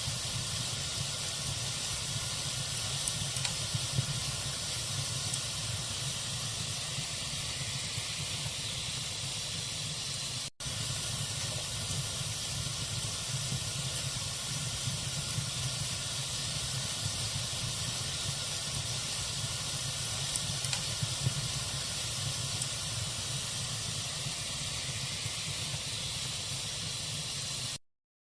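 Log fire burning in a fireplace, a steady hiss with a few faint crackles. The sound drops out for an instant about ten seconds in and cuts off about a second before the end.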